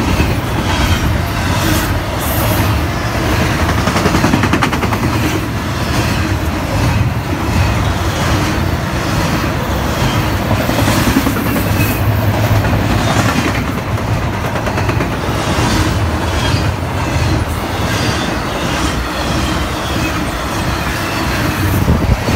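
NS train passing close by: a steady loud rush of wheels on rails, dotted with many sharp crackles.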